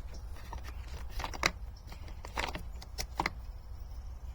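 A few sharp clicks and light knocks as plastic parts of a Hoover FloorMate's water-feed line and a length of copper water-line tubing are handled and fitted together, over a low steady hum.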